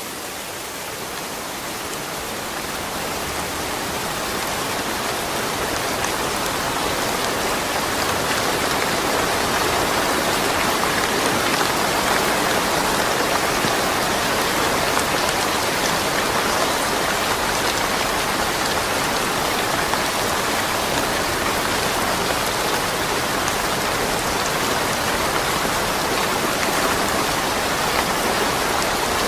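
Steady rain falling, an even hiss of drops that fades in over the first several seconds and then holds level.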